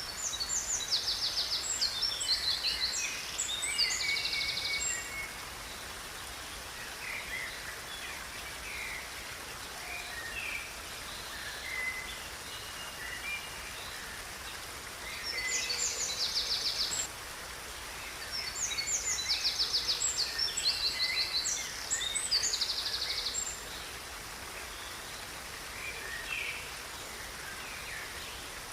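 Songbirds singing outdoors: three bouts of high, fast trilled song lasting a few seconds each, near the start, about halfway through and again soon after, with scattered short chirps between them over a steady background hiss.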